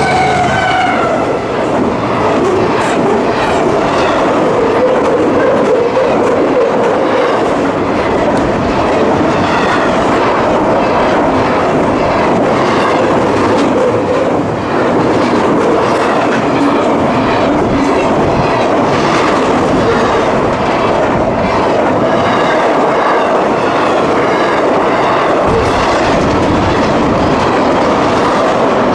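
A fast CSX double-stack intermodal freight train passing close by: steady rumble and rattle of the container well cars, with the wheels clicking over the rail joints. In the first seconds a mid-train distributed-power locomotive goes by, its sound dropping in pitch as it passes.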